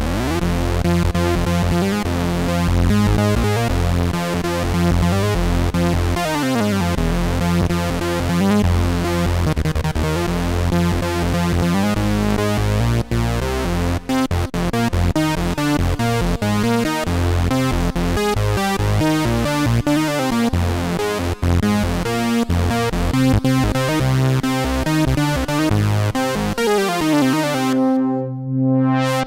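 Korg Prologue analog polyphonic synthesizer playing a custom patch: sustained chords with a rising pitch glide at the start and sliding glides down, about six seconds in and near the end.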